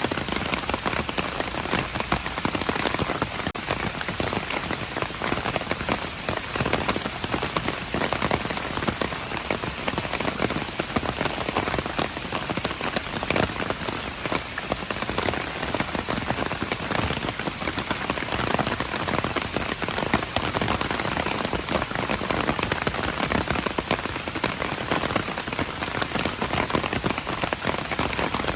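Steady rain: a dense patter of individual drops over an even hiss.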